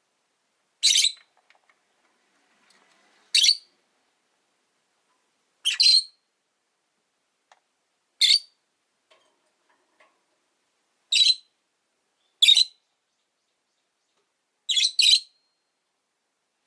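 Rosy-faced lovebirds giving short, high-pitched calls, one every two or three seconds, with a quick pair near the end.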